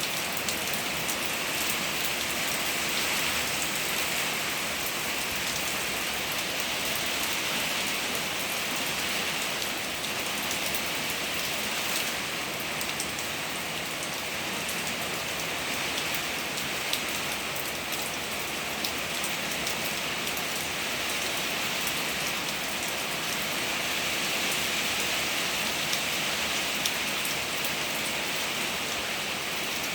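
Steady rain in wind, an even, dense hiss of falling water that swells and eases slowly a few times, with a few faint drop ticks.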